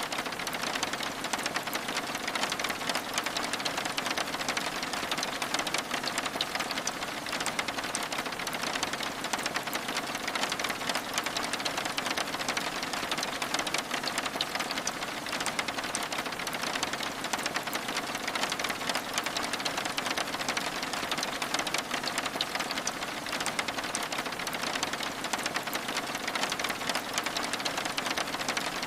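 Steady rain pattering on a window, mixed with the fine crackle of a wood fire in a fireplace: an even hiss thick with small ticks, unchanging throughout.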